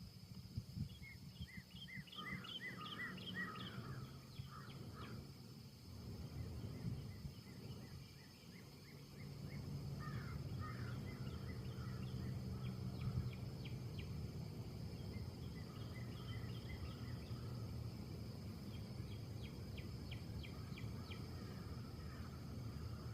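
Small birds chirping in quick runs of repeated notes, several times over, above a steady low outdoor rumble that grows a little louder partway through.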